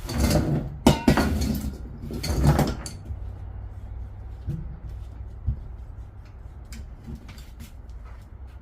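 A 140cc pit bike engine being kick-started about three times in quick succession in the first three seconds, each kick a short clattering turn-over with sharp metallic clicks, and the engine not catching. It is a start attempt with brake cleaner sprayed in as starting fluid.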